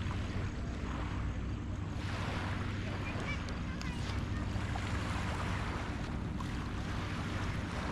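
Small harbor waves washing onto a beach, the rush of water swelling every couple of seconds, with wind buffeting the microphone and a steady low hum underneath.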